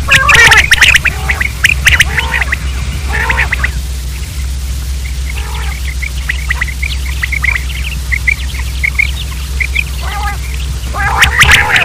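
Quails calling: harsh squawking bursts near the start and again near the end, with a run of short, high chirps in between. A steady low hum sits underneath.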